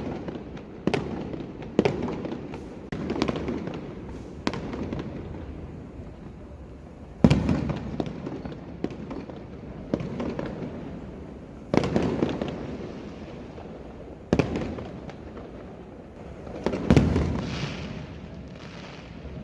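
Fireworks going off: a run of sharp bangs, each trailing off in a rolling echo, with four heavier booms spaced a few seconds apart and a crackling hiss after the last big one.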